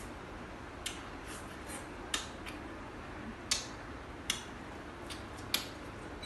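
Eating sounds: a series of short, sharp clicks and smacks at irregular intervals, about eight of them, from mouth or utensils while someone eats a meal.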